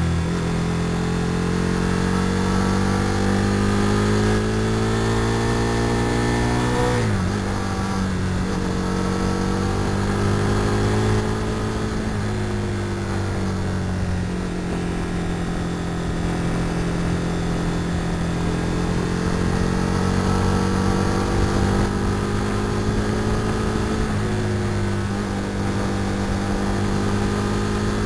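Onboard sound of a 2004 Aprilia RSV R Factory's 998 cc 60-degree V-twin pulling on the highway. Its pitch climbs steadily for about seven seconds, then drops and picks back up in a quick upshift, then holds near steady with small throttle changes. Wind rushes over the microphone throughout.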